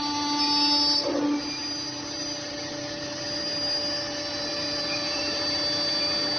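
CNC wood lathe-milling machine running: a steady spindle whine over an even mechanical hiss, with a brief change in pitch about a second in.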